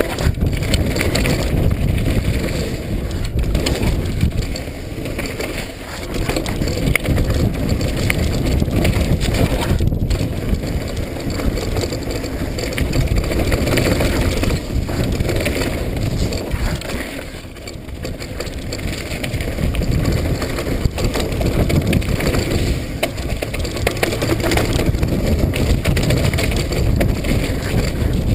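Mountain bike rolling fast down a wet, soaked dirt trail: continuous tyre noise and the bike rattling and clattering over rough ground, easing briefly twice.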